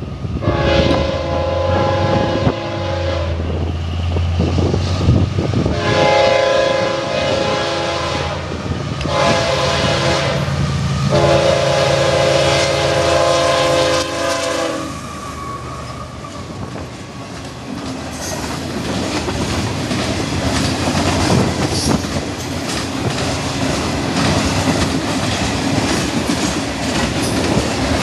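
CSX freight locomotive's air horn sounding several blasts for the grade crossing in the first half, the last one the longest, over the low drone of the diesel engines. Then the train's cars roll past with a steady clickety-clack of wheels on rail, with wind buffeting the microphone.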